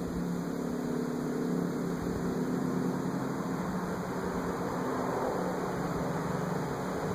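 Subaru Forester's flat-four boxer engine idling with no exhaust system fitted, a steady low-pitched drone.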